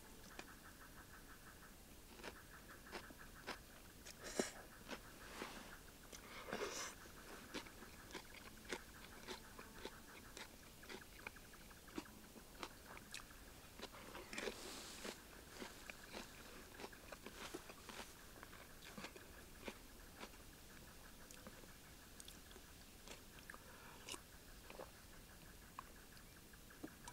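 Faint close-up eating sounds: biting and chewing crunchy food, with scattered light clicks at an irregular pace and a few longer crunches.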